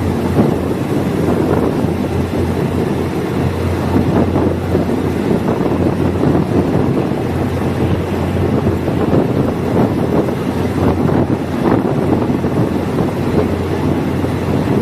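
Diesel multiple unit train running along the track: a steady low engine drone with wheel-on-rail rumble and wind buffeting the microphone.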